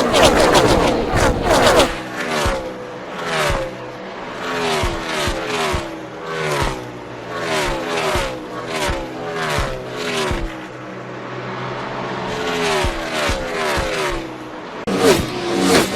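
NASCAR Cup V8 stock cars at racing speed: after a loud burst of engine noise at the start, a line of cars passes one after another, each engine note dropping in pitch as the car goes by, about two cars a second. Near the end a louder engine sound comes in abruptly.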